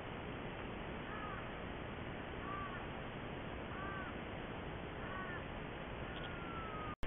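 Steady hiss of a trail camera's microphone, with a bird calling faintly in the background: four short rising-and-falling calls about every second and a half, then a longer falling whistle near the end. The sound drops out for an instant at the very end.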